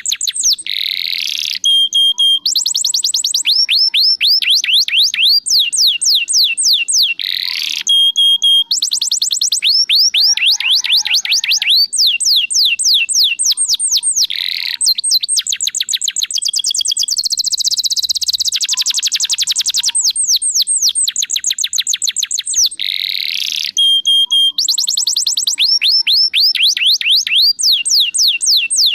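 Domestic canary singing without pause, rolling through fast trills of quick, high, falling notes and switching from one phrase to the next. The same run of phrases comes back every seven or eight seconds.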